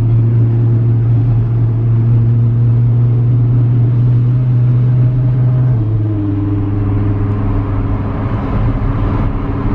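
Car engine droning steadily at cruise, a low even hum that drops slightly in pitch and loudness about six seconds in, as the car eases off.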